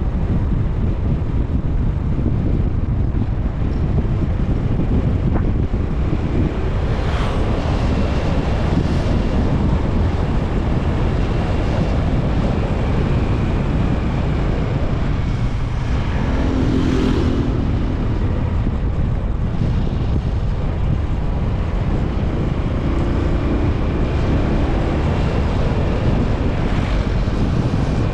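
Heavy wind rush and buffeting on the microphone of a moving Honda TMX 125 Alpha motorcycle, with the bike's single-cylinder four-stroke engine running underneath. A few brief swells of noise come and go.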